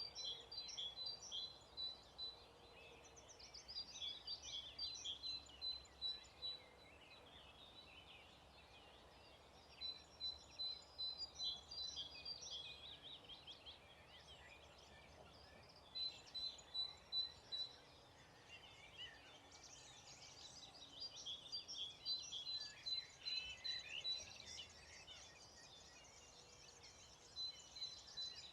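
Several songbirds singing in a dawn chorus. One bird repeats a quick series of high notes on a single pitch every few seconds, among varied warbling and twittering from others.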